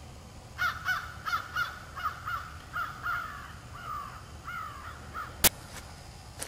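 A bird calling over and over, about a dozen short, harsh calls in quick succession, then a single sharp click near the end.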